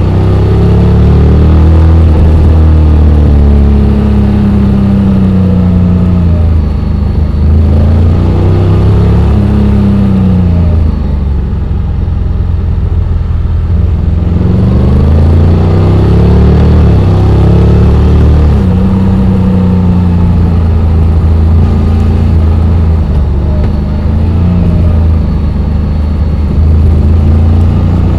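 Honda X-ADV 750's parallel-twin engine running under a rider, its pitch repeatedly rising and falling as the throttle opens and closes, with a softer, lower-revving stretch about halfway through.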